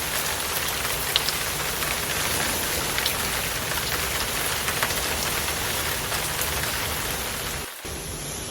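Hard rain falling steadily, a dense hiss with individual drops ticking, briefly dipping for a moment near the end.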